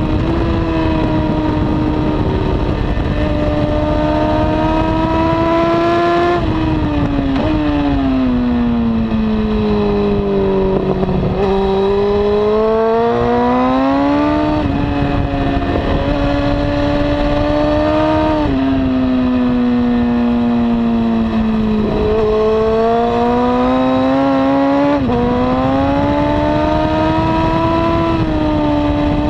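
Honda CBR954RR's inline-four with a slip-on exhaust, running hard on track. Its pitch falls and climbs over and over, with several sudden steps as gears change, over a steady rush of noise.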